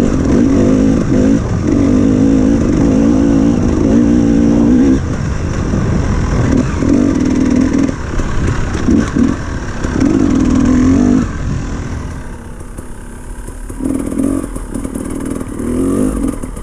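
Dirt bike engine revving in short bursts as the throttle is opened and closed on a slippery trail, dropping to a quieter, lower run for a couple of seconds near the end before picking up again.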